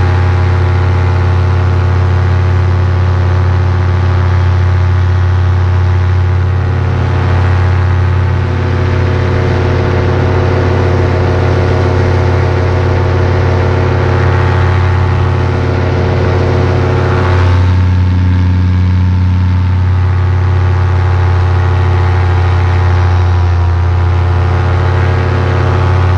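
Paramotor engine and propeller running loud and steady at a constant speed, close to the microphone, with a brief change in pitch about two-thirds of the way through.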